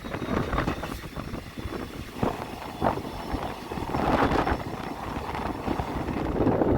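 Passenger train in motion: a steady rumble of wheels on the rails with rushing air, swelling briefly a few times.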